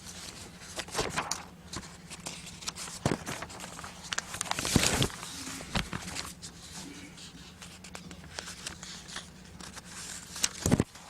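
Room noise in a meeting chamber: a steady low hum with scattered small knocks, clicks and rustles, and one louder rustle about five seconds in.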